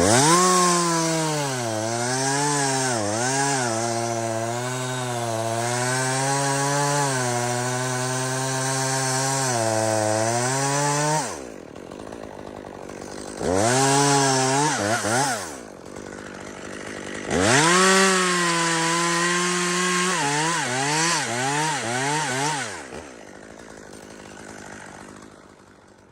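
Gas chainsaw cutting spruce wood. It revs up and is held under load for about eleven seconds, its pitch dipping as it bites, then drops to idle. After a short rev it makes a second cut of about five seconds, then winds down to a faint idle near the end.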